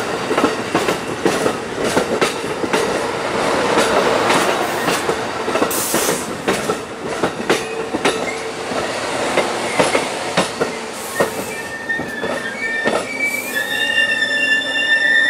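Amtrak Southwest Chief passenger train rolling through slowly, its wheels clicking over rail joints. In the last few seconds a steady high-pitched wheel and brake squeal sets in and grows louder as the train slows for its station stop.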